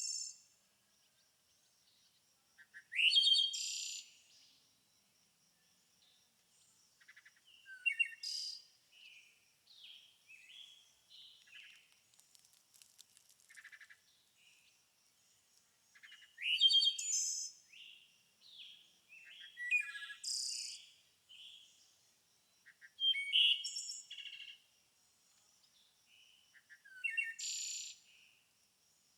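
Wild birds singing: a loud, quick song phrase every few seconds with softer chirps and calls between, over a faint steady high-pitched tone.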